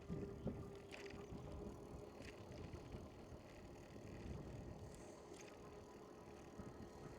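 Faint riding noise from an electric recumbent bike: a low rumble with a steady faint hum that fades near the end, and a few light ticks.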